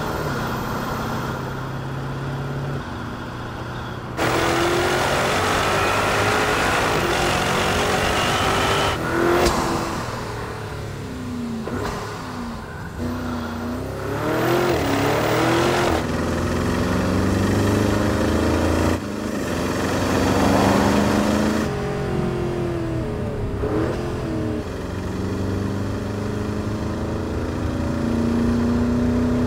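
Porsche Cayenne Turbo GT's twin-turbo 4.0-litre V8 and sport exhaust running under acceleration, the engine pitch climbing and falling repeatedly as the car revs through the gears and drives past. It comes as a string of separate recordings joined by sudden cuts.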